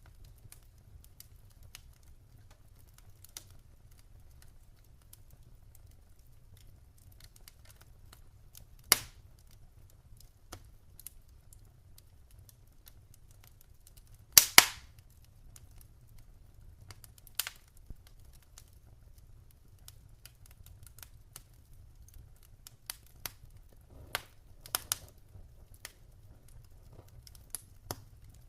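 Wood fire in a fireplace crackling, with scattered sharp pops and snaps. The loudest is a quick double pop about halfway through, and a few more come close together near the end, over a faint low steady rumble.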